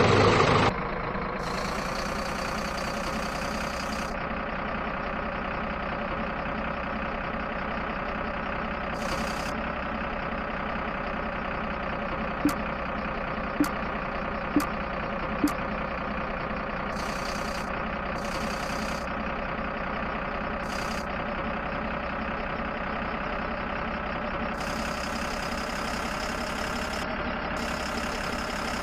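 Tractor engine sound that starts loudly, then idles steadily with a constant pitch. About halfway through come four short clicks, roughly a second apart.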